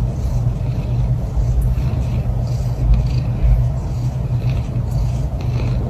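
Steady low rumble with faint patches of hiss higher up.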